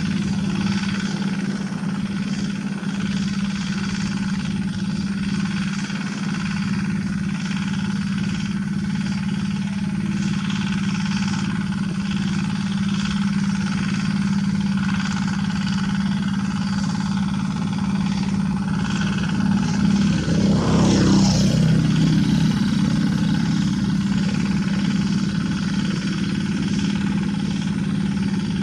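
The Kubota single-cylinder diesel engine of a two-wheel rotary tractor running steadily while tilling, with a louder surge about two-thirds of the way through.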